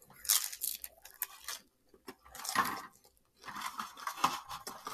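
Close-miked chewing of takeout food, with chopsticks clicking against a plastic takeout container: irregular clicks and short bursts, a longer one about two and a half seconds in.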